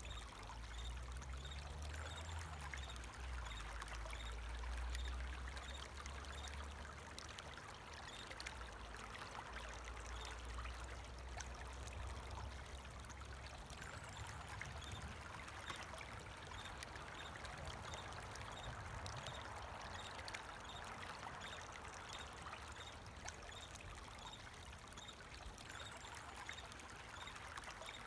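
Water flowing and trickling in a stream, a steady rushing hiss, with faint regular cricket chirps. A low rumble sits under it for roughly the first half.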